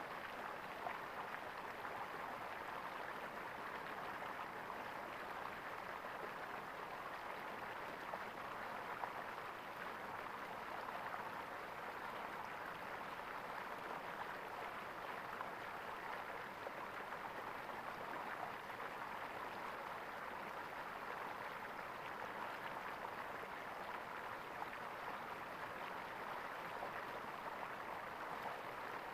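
Stream water gurgling, a steady rushing with small splashes flickering through it.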